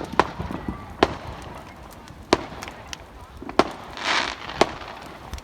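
Fireworks going off: a run of five sharp bangs roughly a second apart, with a short hiss about four seconds in.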